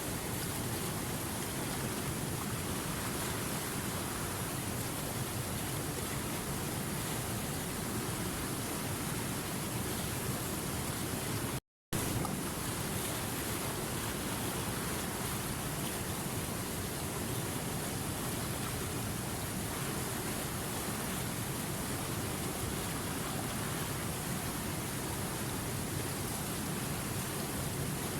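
River water rushing steadily, an even hiss with no separate splashes or tones. The sound cuts out briefly for a fraction of a second about twelve seconds in, then resumes.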